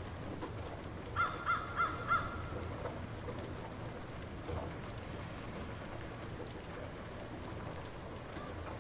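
Light rain falling steadily, with a bird calling four times in quick succession a little over a second in.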